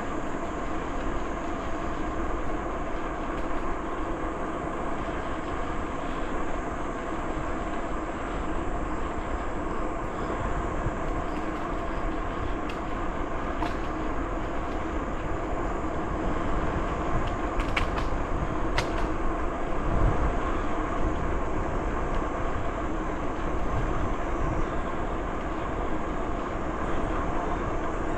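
Steady rolling noise of a bicycle ridden along a trail, with a few sharp clicks in the second half.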